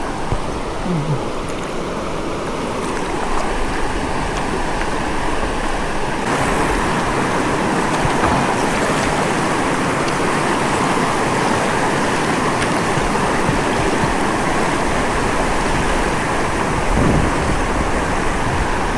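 Steady rush of flowing river water, a continuous noise that grows brighter and fuller about six seconds in.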